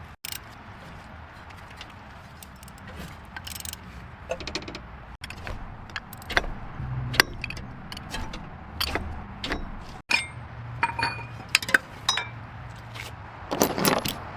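Scattered sharp metallic clinks and knocks over a low hum, in short stretches broken by abrupt cuts, with a denser run of clinks near the end.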